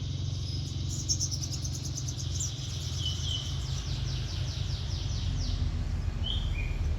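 Crimson sunbird singing: a fast run of high, sweeping notes, about five a second, lasting several seconds, with a few short chirps before and after. A steady low rumble sits underneath.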